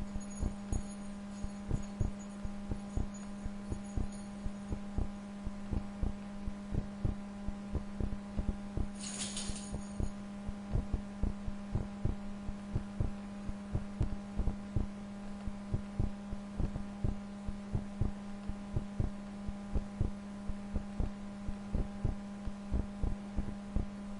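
Computer mouse clicking irregularly, a few clicks a second, over a steady electrical hum. A short hiss comes about nine seconds in.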